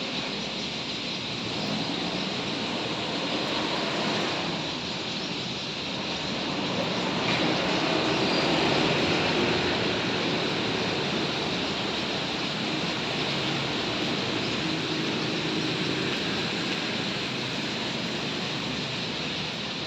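Huge flock of swallows in flight: countless twittering calls blending into one steady, dense wash, swelling a little partway through.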